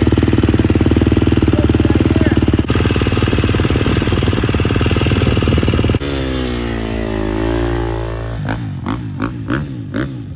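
Dirt bike engine running hard at high revs with a fast rattling pulse. About six seconds in its pitch sinks and climbs again, and it ends in a string of short throttle blips.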